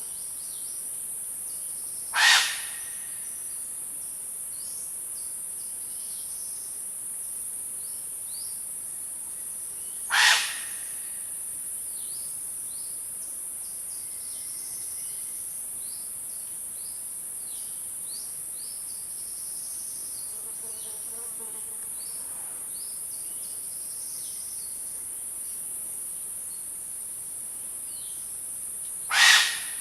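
Night ambience with a steady high-pitched insect trill, like crickets, and scattered short chirps. Three loud, sharp sounds cut through it: about two seconds in, about ten seconds in and near the end.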